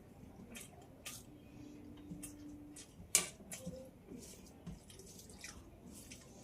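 Wet mouth clicks and smacking of a person chewing food close to the microphone, irregular, with one sharper click about three seconds in.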